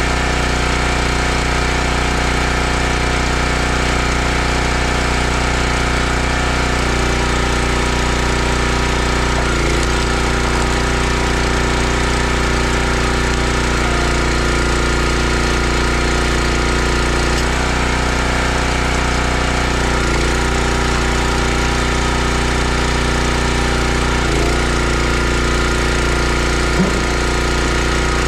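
Log splitter's gas engine running steadily, its tone shifting every few seconds as the splitter works, with a single sharp click near the end.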